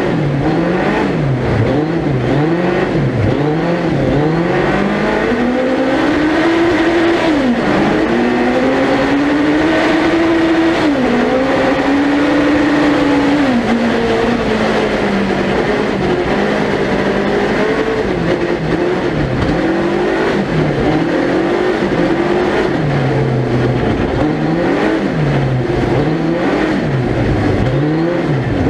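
Suzuki Hayabusa 1300cc motorcycle engine in a four-wheel-drive ice-racing prototype, revving with quick rises and falls as the throttle is worked on and off. Through the middle it pulls longer and higher, with three sudden drops in pitch at the gear changes.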